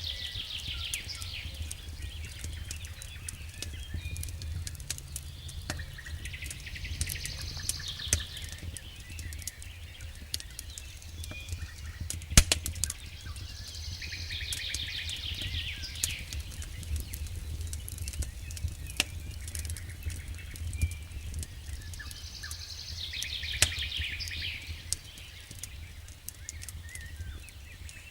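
Wood fire burning in a fireplace with scattered crackles and sharp pops, one pop much louder about twelve seconds in, over a steady low rumble. A bird's song phrase, a high falling trill, repeats about every eight seconds.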